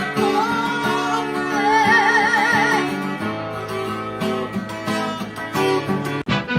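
Acoustic guitar music, strummed and plucked, with a high wavering melody line over it for the first few seconds. Near the end the music breaks off abruptly and a different piece begins.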